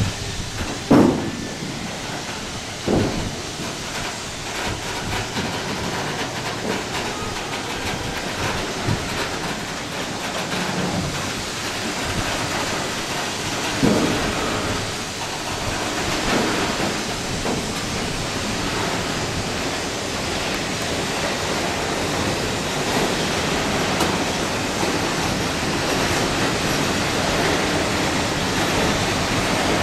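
Train rolling along the track: a steady rushing noise that slowly grows louder, with a few separate knocks, the loudest about a second in and others near three and fourteen seconds.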